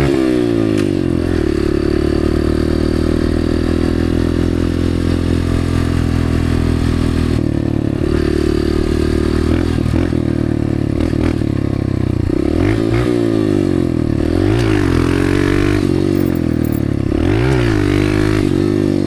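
Dirt bike engine running under throttle. It holds a steady pitch for several seconds and drops off briefly about seven seconds in, then revs up and down repeatedly in the second half.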